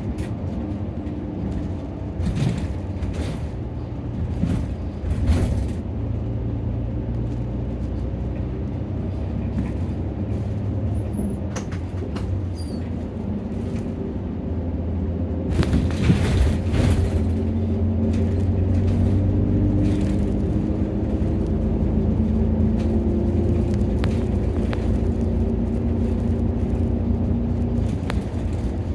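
Nissan Diesel city bus running, heard from inside the cabin: a steady diesel engine drone and road rumble, with the engine note shifting in pitch through the second half. A few short rushes of noise stand out, the loudest about midway.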